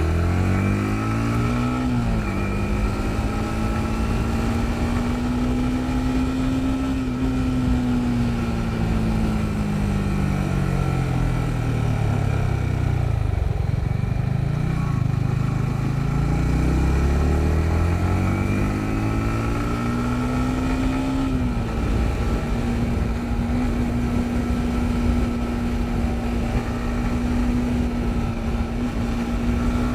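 Yamaha MT-15's single-cylinder engine under way. It revs up and shifts up about two seconds in, holds, then slows down through the middle. It pulls up again with another upshift about two-thirds through and then cruises at a steady pitch, over a constant rushing noise of wind and the wet road.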